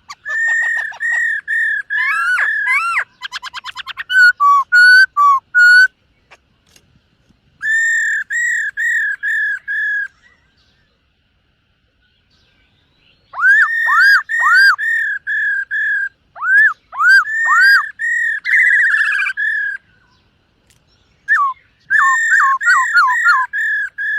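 Black-throated laughingthrush singing loud, clear whistled phrases of repeated, slurred notes, with a fast trill a few seconds in. The song comes in four bursts with short pauses between them.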